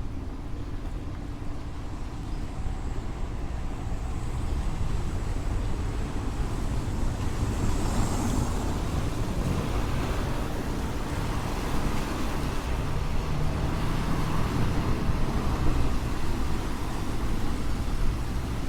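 Street traffic on a rain-wet road: cars passing with a hiss of tyres on wet pavement over a low rumble, growing louder about four seconds in.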